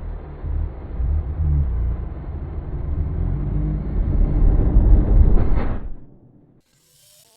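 Heavily processed, bass-heavy rumbling effect audio with a muffled top end, swelling near the end, then a short rising sweep before it dies away about six seconds in.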